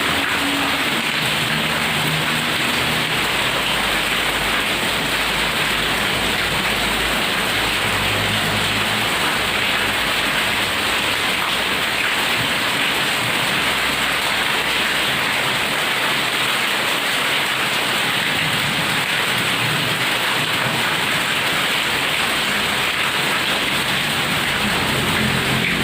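Heavy rain pouring down in a steady, dense hiss. A low rumble of thunder sits under it for the first several seconds and comes back near the end.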